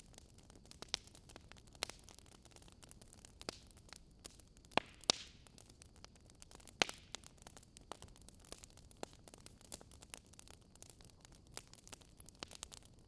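Quiet wood fire crackling: irregular sharp pops and snaps over a faint steady hiss.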